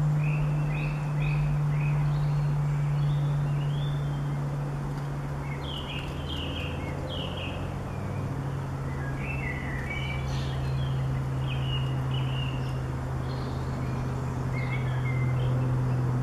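Small songbirds chirping in short, scattered calls, over a steady low drone that drops slightly in pitch about halfway through.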